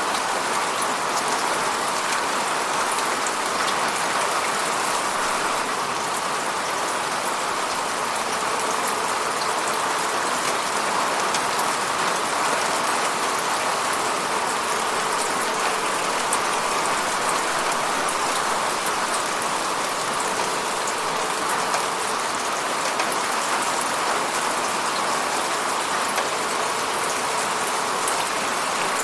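Steady falling rain: an even hiss of rain on a surface with fine scattered drop ticks.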